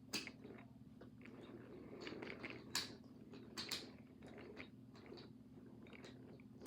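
Wooden toy trains on wooden track: a few sharp wooden clicks and knocks, irregularly spaced, with light clattering between them, over a faint steady hum.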